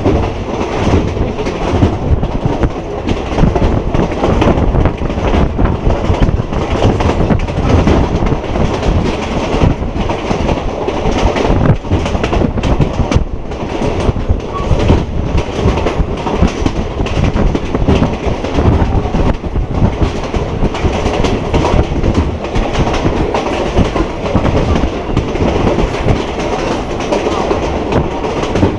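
Passenger train running at speed, heard from on board at a carriage window: a steady rumble and rattle with wheels clicking and clattering over the rails.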